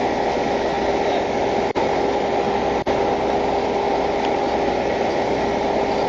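Steady hum and hiss of an idling vehicle engine, broken by a few very brief dropouts.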